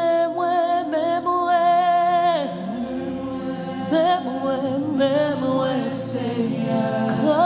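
Praise and worship singing: a slow gospel song with voices holding long, sliding notes over a sustained accompaniment.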